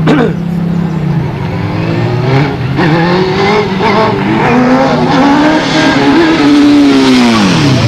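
Motorcycle engines running loud as bikes ride past along the street. One engine's note climbs as it is revved, is loudest near the end, then drops sharply in pitch as it passes by.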